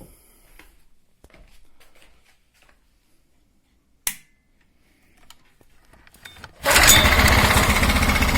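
Briggs & Stratton 500 series 158cc single-cylinder lawnmower engine on a homemade outboard, pull-started and catching at once near the end, then running loud and steady. Before that there are faint handling clicks and one sharp knock about halfway through.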